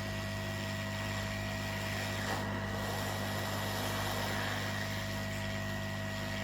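Hot-air rework station blowing steadily over a laptop motherboard while a replacement power IC is soldered on: an even airy hiss over a constant electrical hum.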